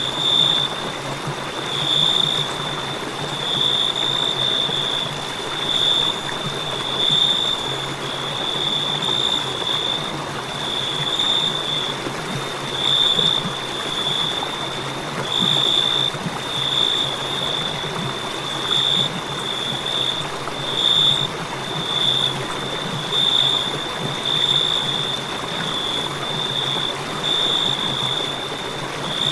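Crickets chirping: a continuous high-pitched trill that swells and fades every second or two, over a steady background hiss.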